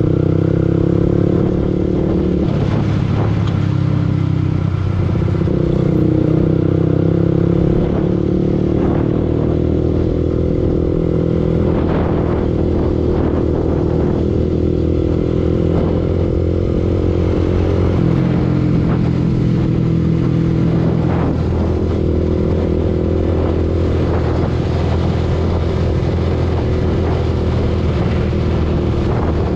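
Yamaha R15 V2 motorcycle's single-cylinder four-stroke engine running steadily while riding, its pitch dipping and rising a few times with the throttle.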